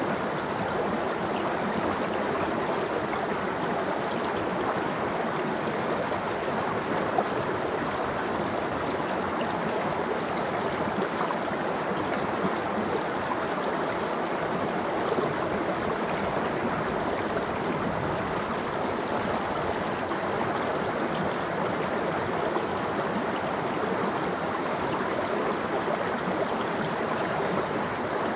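Mountain stream of cold meltwater flowing steadily over rocks, an even rushing and gurgling with no breaks.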